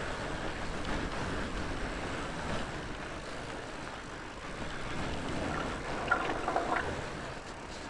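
Fat bike riding a mountain bike trail: a steady rush of tyre noise and wind on the microphone, with a few sharp clatters and short squeaks about six seconds in.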